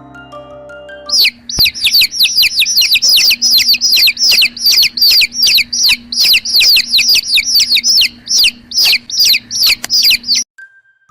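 Baby birds cheeping loudly and rapidly: a run of high peeps, each sliding downward in pitch, about three to four a second. The cheeping starts about a second in, after soft mallet-instrument music, and cuts off suddenly near the end.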